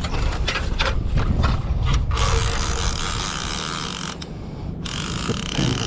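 Fishing reel clicking and ratcheting while a hooked striped bass is played on the line. A run of sharp clicks gives way to a steady hissing buzz about two seconds in, which breaks off briefly and returns near the end.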